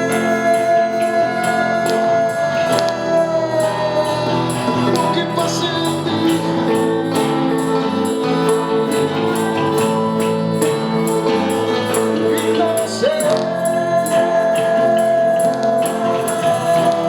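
Live rock band playing with guitars, bass and percussion, a tambourine-like percussion stroke keeping an even beat over long held high notes.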